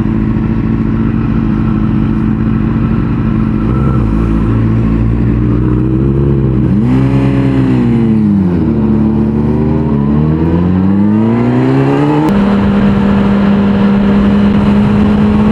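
Inline-four sport bike engine under way, running at a steady pitch, then dropping to a lower note about four seconds in. Its pitch falls and climbs again as the bike slows and accelerates, and it settles to a steady cruise near the end.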